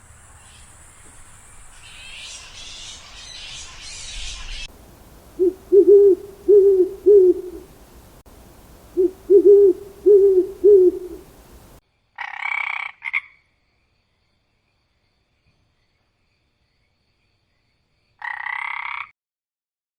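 Animal calls: two runs of three loud, low calls about a second apart, then two short, higher-pitched calls several seconds apart.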